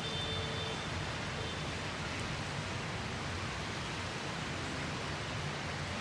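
Steady rainstorm rain falling as an even, unbroken hiss.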